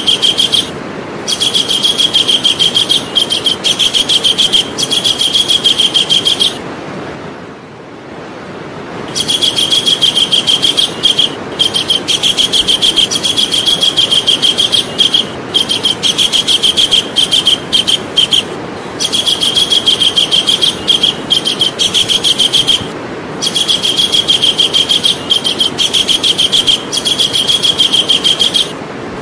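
Javan kingfisher calling: long, fast trills of repeated high notes, each run lasting several seconds, broken by short pauses and by a longer pause about seven seconds in, over a steady hiss.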